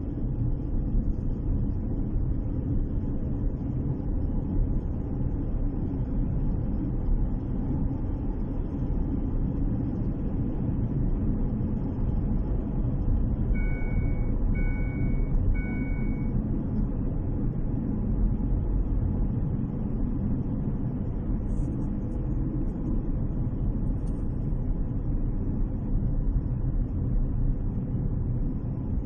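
Chery Tiggo 4 crossover with a CVT driving: a steady low rumble of engine, transmission and road noise. About halfway through, three short beeps sound in a row.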